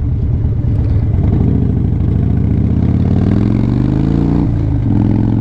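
A vehicle engine accelerating, its pitch climbing steadily, then dropping sharply at a gear change about four and a half seconds in and running on steady.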